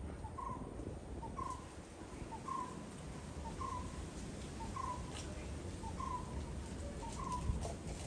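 A bird calling a short hollow note about once a second, seven times in a row, each note led by a fainter, quicker note just before it.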